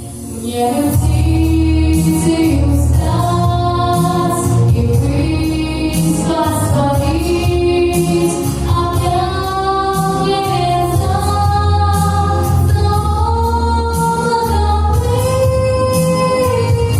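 A girl's voice singing a song in Russian, with held notes and vibrato, over a backing track with bass and a steady beat.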